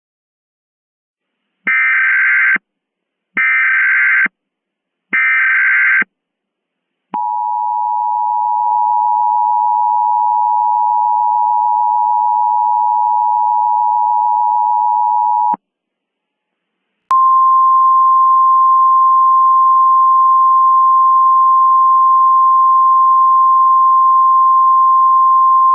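Emergency Alert System tones: three short bursts of warbling digital header data, then the steady two-tone attention signal for about eight seconds. After a short gap comes a single long steady tone, the pattern of an EAS alert being opened before its spoken message.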